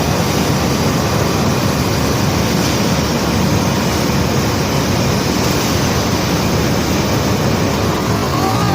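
Conveyor belt carrying rock: a steady mechanical rumble with no breaks.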